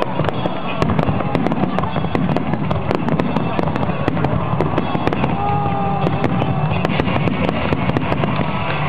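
Fireworks display: a dense, unbroken crackle of many small pops and bangs.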